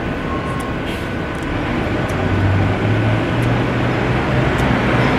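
Steady outdoor city traffic noise, with a vehicle's low engine hum coming in about two seconds in and holding steady.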